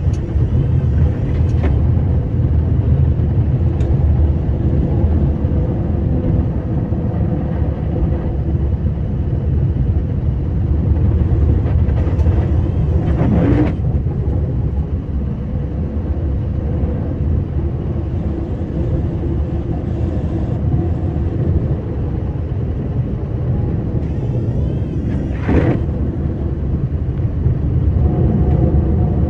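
Scania R560 truck's V8 diesel engine running steadily under load while plowing snow, a deep even rumble. Two short louder bumps break in, one about halfway through and one near the end.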